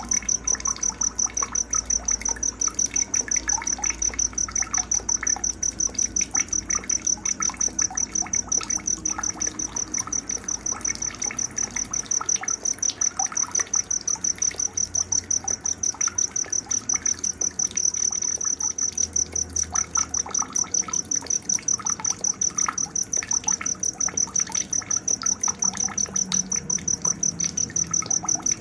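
A cricket's steady, high-pitched pulsing chirp, about three or four pulses a second, is the loudest sound throughout. Many short, scattered bird chirps sound beneath it.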